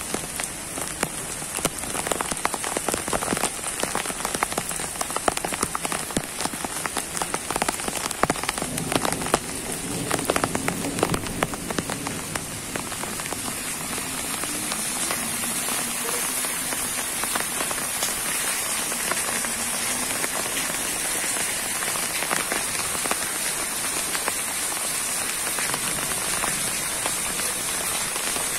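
Rain falling on garden trees and leaves, a dense crackling patter of individual drops through the first dozen seconds that settles into a steadier hiss.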